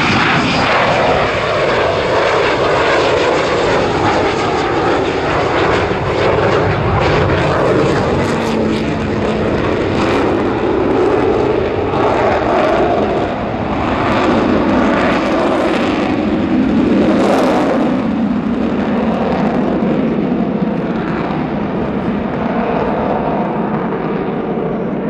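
Avro Vulcan bomber's four Rolls-Royce Olympus jet engines, loud and continuous as it flies past, with the aircraft's well-known howl swelling and easing.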